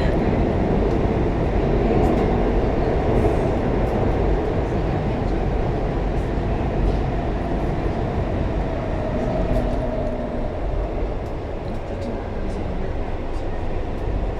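Interior cabin noise of a moving airport-rail passenger train: a steady low rumble of wheels and running gear, easing a little quieter in the last few seconds.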